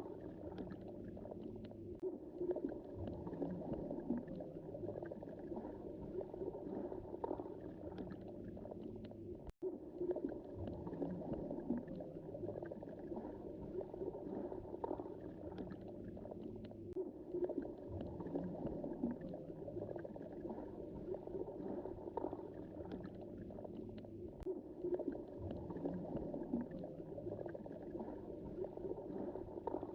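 Underwater sea ambience heard from beneath the surface of the Mediterranean: a steady, muffled wash of moving water with faint scattered clicks. The sound cuts out for an instant about a third of the way in.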